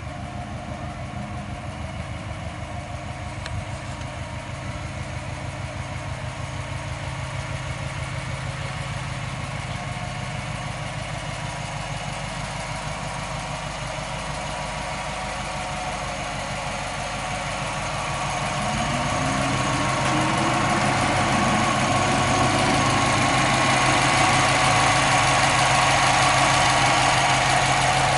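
Subaru Forester STi's 2.5-litre turbocharged EJ25 flat-four idling steadily, growing louder about two-thirds of the way through.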